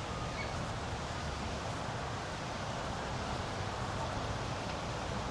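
Steady outdoor ambience: an even wind-like hiss over a low, constant motor hum.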